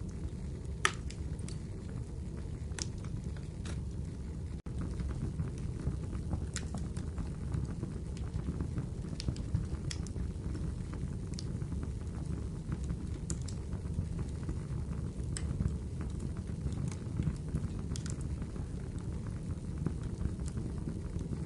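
Wood fire crackling in a fireplace: a steady low rumble of flames with irregular sharp pops and snaps from the burning wood, every second or two.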